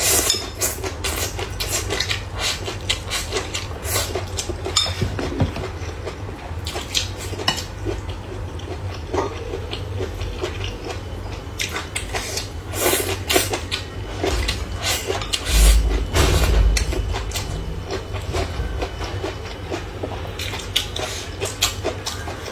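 Eating sounds: utensils clicking and clinking against bowls and dishes while stir-fried bamboo shoots are eaten in big mouthfuls. A short low rumble comes about two-thirds of the way in.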